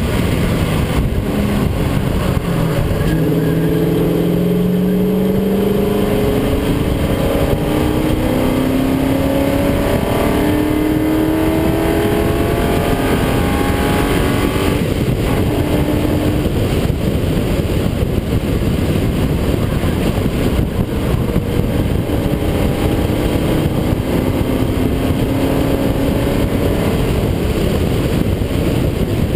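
Track car's engine at full throttle, climbing in pitch through several upshifts over the first half, then running on at speed, under heavy steady wind and road noise.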